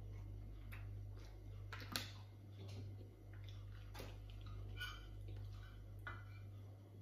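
Close-up mouth sounds of chewing: scattered wet clicks and lip smacks about a second apart, over a steady low hum.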